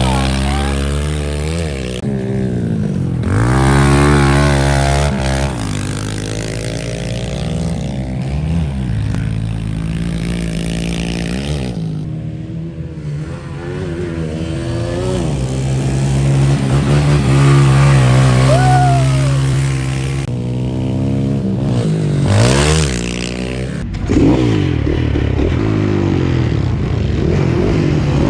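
Dirt bike engines revving up and down as they are ridden around a track, the pitch climbing and dropping through the throttle and gear changes, with a few abrupt changes between clips.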